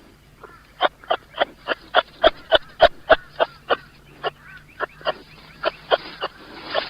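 An animal giving a rapid series of short, sharp calls, about three or four a second, with a brief pause partway through.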